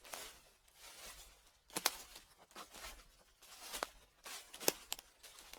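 Footsteps on dry fallen leaves, crunching and crackling with each step, about one step a second, with a few sharper crackles as leaves break underfoot.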